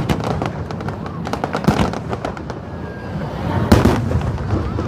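Aerial fireworks going off in quick succession, a string of sharp bangs with the loudest burst about three and a half seconds in.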